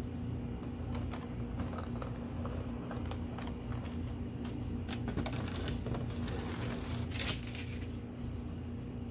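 Scattered light clicks and rustles of parts and tools being handled, with a louder clatter about seven seconds in, over a steady low hum.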